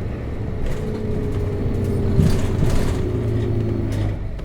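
Nissan Diesel RM bus's FE6 inline-six diesel running steadily as the bus slows for a stop, its tone sagging a little. A few short bursts of noise cut in, the loudest about two seconds in, and the engine tone drops away near the end.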